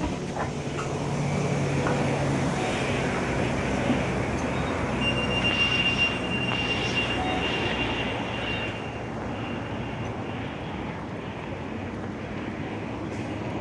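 Cabin noise of a moving bus: a steady engine hum and road rumble, with a thin high whine for a few seconds midway.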